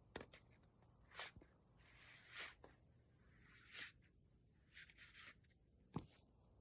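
Faint rustling swishes and scratches of a foxtail-style teaser toy being played with, with a few light taps and clicks: one just after the start, one about a second in, and a sharper one near the end.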